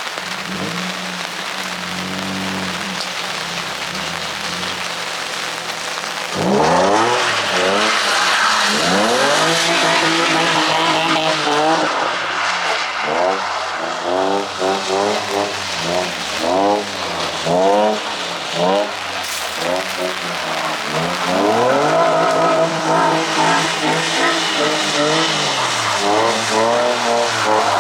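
A car engine runs steadily for about six seconds, then is revved up and down over and over, its note rising and falling about once a second, as the car is drifted. Tyre hiss and skidding run under it.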